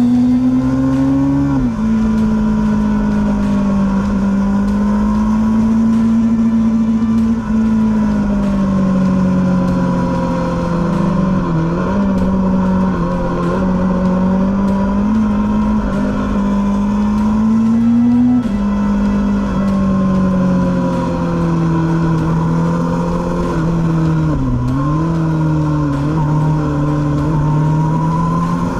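Onboard sound of a superbike engine running at steady high revs through a series of bends. Its pitch slowly climbs and then drops sharply at an upshift, once near the start and again a little after the middle, and it dips briefly twice where the throttle is eased and reopened. A low wind rush lies under it.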